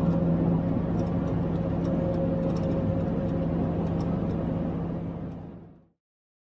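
Steady engine drone and road noise heard inside a food truck's cab at highway speed, fading out to silence about six seconds in.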